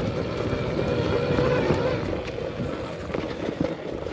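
Arctic Leopard XE Pro electric dirt bike being ridden over rough trail: a steady faint motor whine under a continuous rattle of the bike and knocks from the tyres on dirt and rock.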